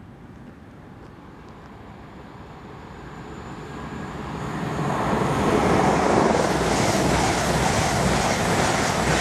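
Passenger train approaching and running through the station at speed. A rush of wheel-on-rail and engine noise grows from about three seconds in and is loud and steady from about five seconds in as the carriages pass, with a faint rhythmic clatter of the wheels.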